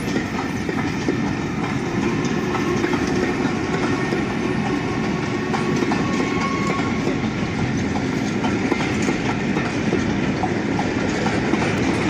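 Passenger coaches of a departing railtour train rolling steadily past, wheels running over the rail with faint clicks.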